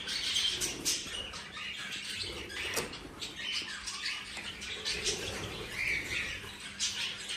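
Budgies chirping, with short calls scattered throughout and a few small clicks.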